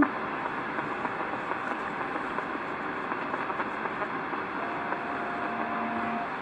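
Steady hiss of an open CB radio channel between transmissions, with a faint steady whistle-like tone coming in about halfway through.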